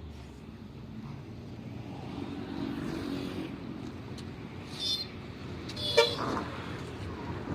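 A motor vehicle running past with a steady low hum that builds, a brief high toot about five seconds in and a sharp click about a second later.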